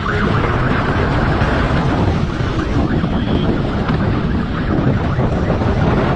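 Motorcycle riding at speed, with wind rushing over the microphone in a dense steady roar over the engine and road noise.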